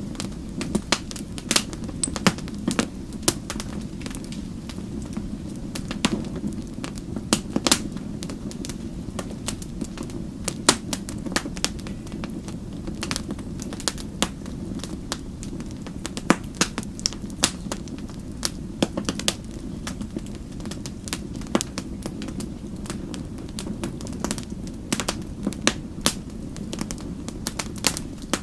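Wood fire crackling, with a steady low roar under many sharp, irregular pops and snaps.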